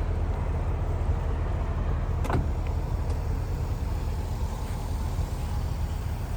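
Steady low vehicle rumble, with a single sharp click about two seconds in.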